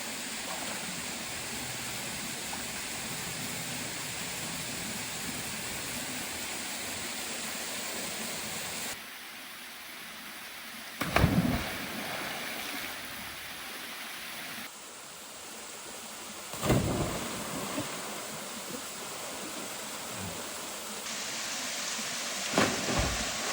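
Steady rushing of falling water, whose level and tone change abruptly a few times. Three brief, louder low bumps break through it, a few seconds apart.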